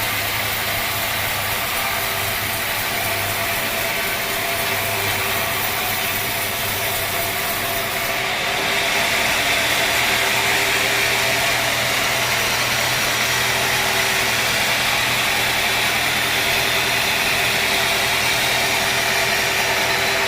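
Sawmill machinery running steadily, a continuous mechanical hum and hiss that gets louder about eight and a half seconds in.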